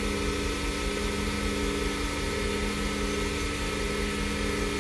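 Wood lathe running at a steady speed with a steady hum, spinning a padauk pen blank while a paper towel is pressed against it to polish it with friction heat.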